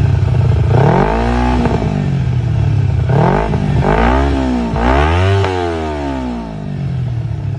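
Motorcycle engine being revved in repeated throttle blips, about four times. Each time the revs climb and then fall back, the biggest climb coming about five seconds in, before the engine settles back to idle.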